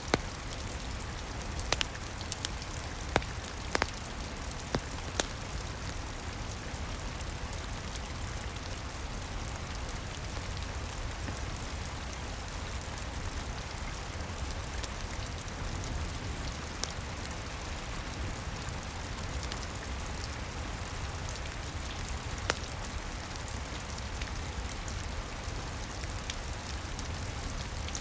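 Steady rain over a low rumble, with the sharp crackles and pops of a wood fire, several in the first few seconds and one more later on.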